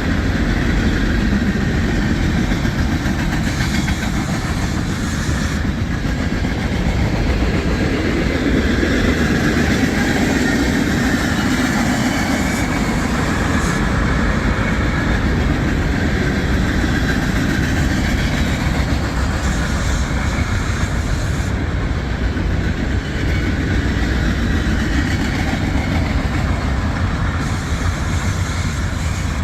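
Union Pacific freight train rolling past, its cars' steel wheels running on the rails in a steady, continuous rumble.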